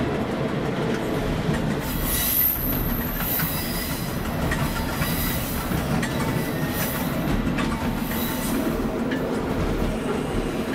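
Diesel railbus running along the track, heard from the driver's cab: steady running noise with wheels knocking over rail joints, and a brief high wheel squeal about two seconds in as it takes a curve.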